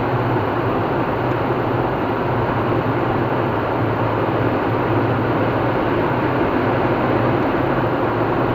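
Car driving at speed on a highway: steady tyre and road noise with a constant low engine hum.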